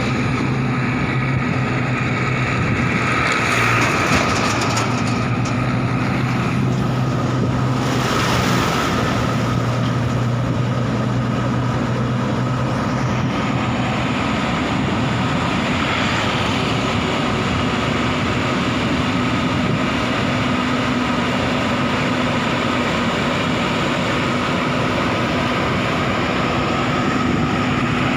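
JCB backhoe loader's diesel engine running steadily as the machine drives itself down off a truck. A low engine note drops away about halfway through.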